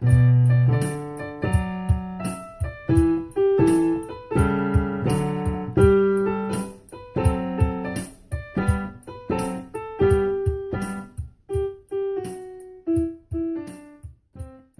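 Solo piano music: a simple melody over chords, stopping shortly before the end.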